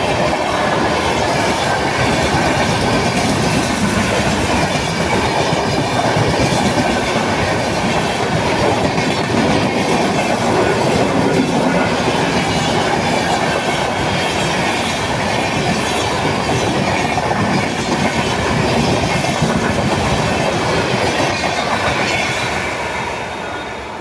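Long-distance passenger express train running through at speed, its wheels clattering steadily over the rail joints, the noise easing off near the end as the last coaches go by.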